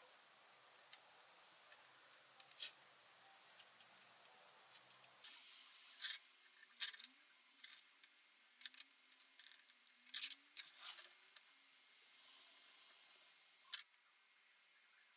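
Small sharp clicks and clinks, about a dozen, starting about six seconds in, with a faint rustle between them: plastic containers and packaging of an epoxy resin kit being handled and unpacked.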